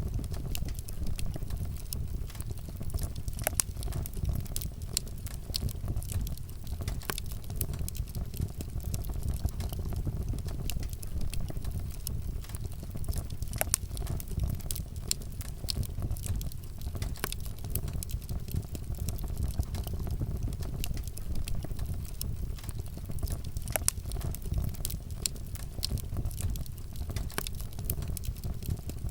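Wood fire burning: steady low rumble of the flames with many irregular sharp crackles and pops.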